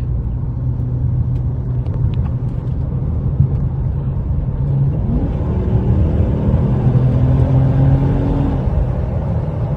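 Dodge Charger R/T's V8 engine heard from inside the cabin in sport mode, first cruising steadily. From about five seconds in it pulls harder, its pitch rising for a few seconds before it eases off.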